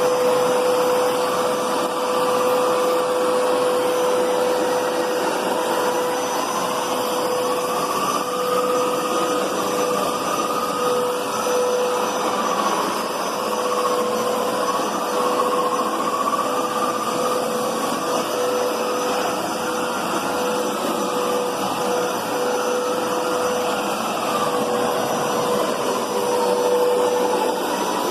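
Hoover Powerscrub Deluxe carpet cleaner running, its suction motor giving a steady whine while its motor-driven brushes scrub the carpet. A second tone wanders slightly up and down throughout.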